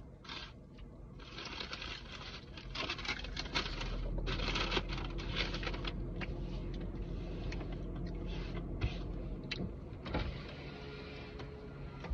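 Close-up chewing and crunching of food, with irregular rustling of food wrappers and packaging, over a low steady hum.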